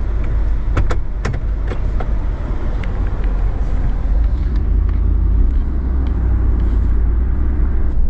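Vehicle running at low speed, towing a boat trailer up and away from a launch ramp: a steady low rumble, with several sharp clicks and knocks in the first couple of seconds and a few fainter ones later.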